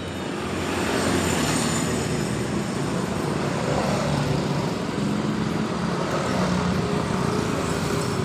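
Steady road traffic noise: the continuous rumble and hum of passing motor vehicles.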